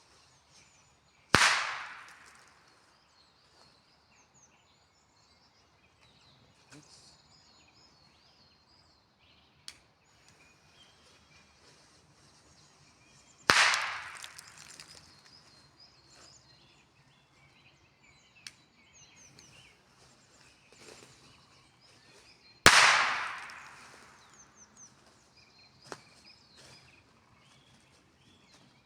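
Three firecracker bangs, about twelve and then nine seconds apart, each echoing and dying away over about a second.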